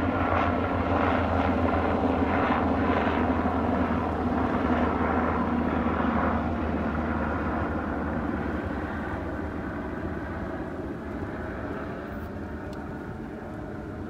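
A steady engine drone with a low hum, loud at first and fading away over the last several seconds as it moves off.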